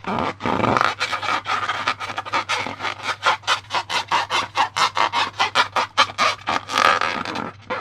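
Slime being worked by hand, a fast run of sticky, squishing strokes several times a second.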